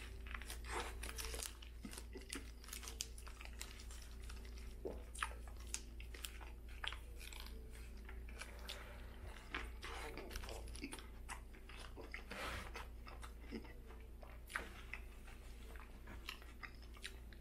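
A man biting into and chewing a Burger King Whopper: faint, irregular small clicks and wet chewing throughout.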